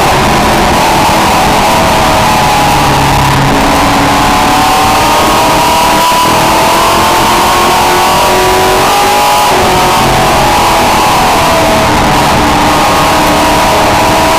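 Race truck engine heard onboard at racing speed, loud and steady in level, its pitch rising and falling again and again as it accelerates and lifts around the short oval.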